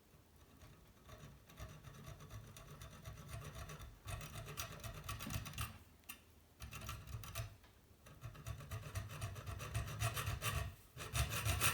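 Small hand saw cutting back and forth through the metal tube of a kettle heating element, the strokes getting louder and pausing briefly twice; the metal is hard and slow to cut.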